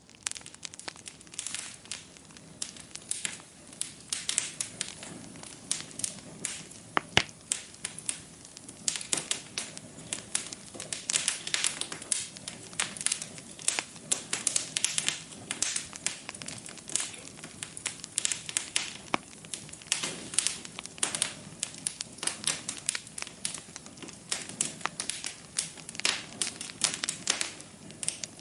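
Wood fire crackling in a fireplace: many irregular pops and snaps, several a second, over a soft hiss.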